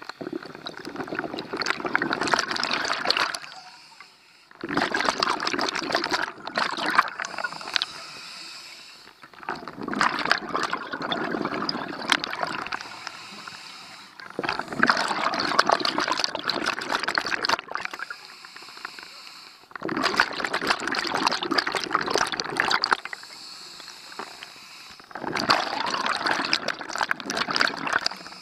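Scuba regulator exhalations: bursts of bubbles from the diver's exhaust valve, about every five seconds, with quieter gaps for the inhaled breaths between them.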